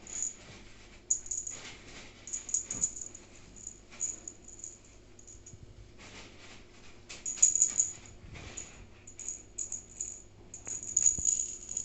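A small jingling, rattling toy shaken in irregular bursts, loudest about seven seconds in and again near the end.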